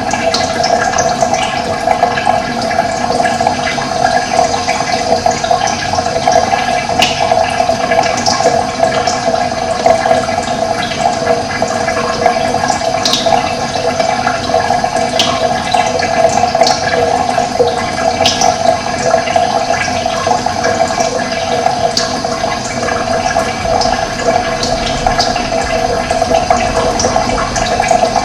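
Running water flowing steadily, with scattered short bird chirps above it.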